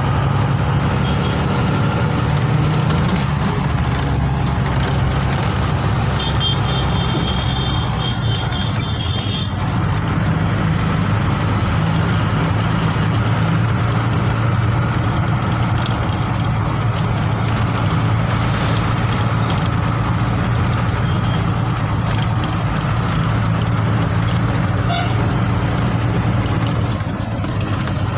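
Heavy truck engine running steadily with road traffic noise, a continuous low drone. From about six to nine and a half seconds in, a run of quick high beeps sounds over it.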